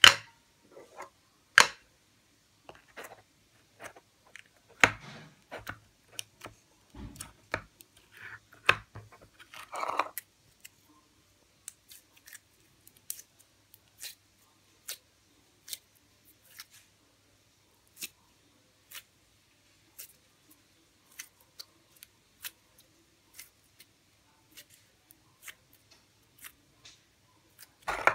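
Gummy toy slime being played with: irregular sticky squishes and crackles for the first ten seconds or so, then a long series of short, sharp clicks a little under a second apart.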